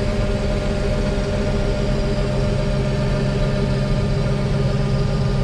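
Case IH 1660 combine's diesel engine and machinery running at a steady drone, with a set of constant engine tones under it.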